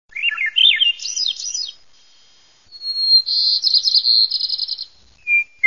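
A songbird singing. First comes a quick run of rising and falling whistled notes, then a pause, then a rapid high trill from about three to five seconds in, and a short single note near the end.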